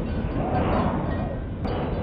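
Wind blowing in gusts, with a deep rumble and a faint whistle that rises and falls in pitch. It eases briefly about one and a half seconds in.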